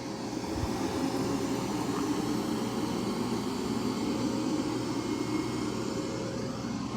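Mova V50 robot vacuum running on carpet at maximum suction: a steady, relatively quiet whir with a faint constant tone.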